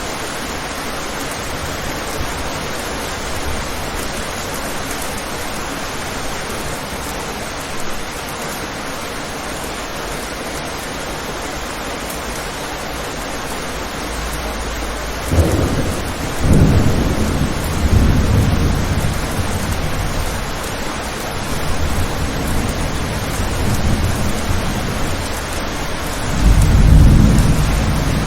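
Steady rain on a window. About halfway through, a roll of thunder begins, rumbling in several deep waves and peaking loudest near the end.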